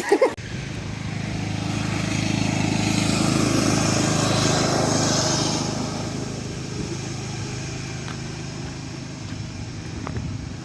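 A small engine runs steadily, starting abruptly, growing louder for a few seconds and then fading as it passes by and moves off.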